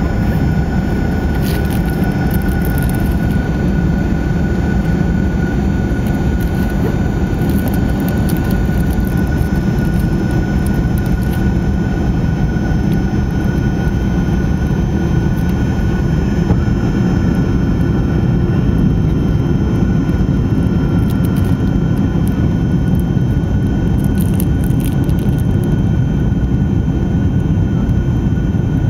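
Cabin noise inside a Fokker 70 airliner in flight: a steady, heavy roar of airflow and engines with a high, steady whine from its Rolls-Royce Tay turbofans.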